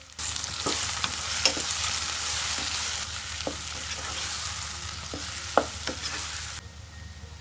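Food sizzling as it fries in a pan, stirred with a spatula that taps against the pan several times. The sizzle starts suddenly just after the start and cuts off near the end.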